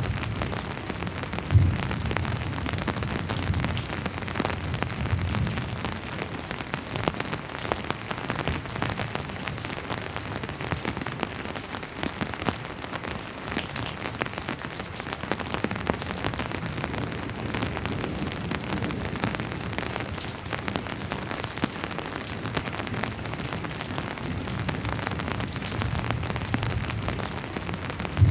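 Steady rain falling and spattering on surfaces, an even hiss of drops, with low rumbling swells near the start and again near the end. A single sharp tap stands out about one and a half seconds in.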